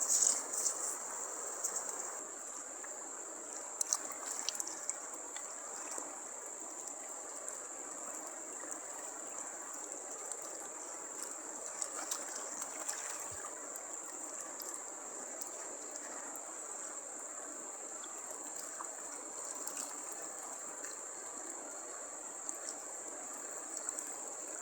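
Insects, crickets or the like, chirring in a steady high drone over an even hiss like a small stream of trickling water. A few faint clicks are scattered through it, a little louder at the very start.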